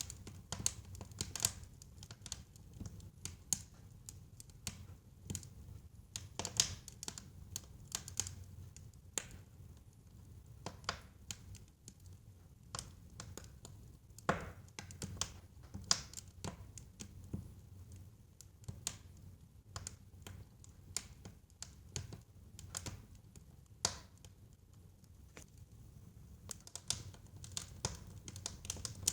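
Wood fire crackling in a fireplace: irregular pops and snaps, some sharper than others, over a low steady rumble of burning.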